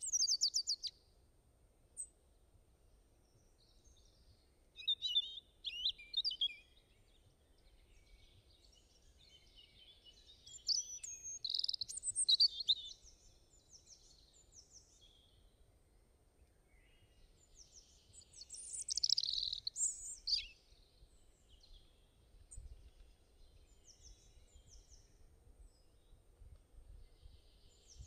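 Small birds chirping and singing in short bursts a few seconds apart, loudest around the middle, over a faint low rumble.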